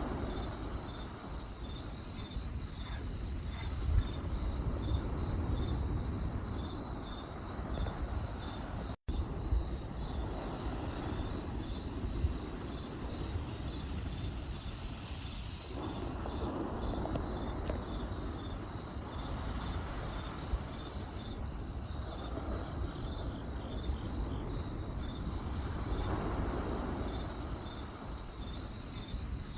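Crickets chirping in a steady, high-pitched pulsing chorus over a campfire with a constant low rumble of burning and a few sharp crackles. The sound cuts out for an instant about nine seconds in.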